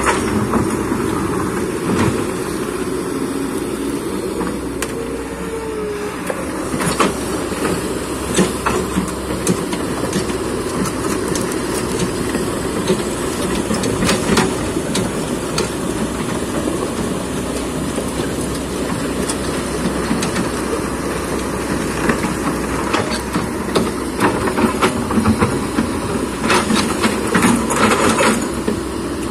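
Kobelco excavator's diesel engine running steadily under load, with repeated clanks and knocks of the bucket and rock scattered through it, bunched into a quick run of knocks near the end.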